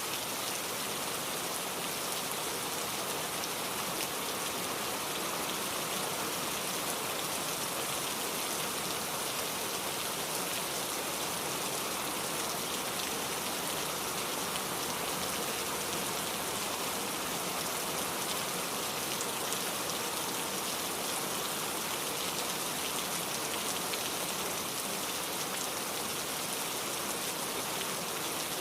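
Steady rain falling, an even hiss with fine drop patter that doesn't change in strength.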